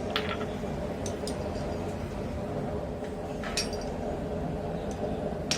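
A few light metallic clinks of steel being handled, over a steady hum, in a pause in the forging; a hammer strike lands on the hot steel rod right at the end.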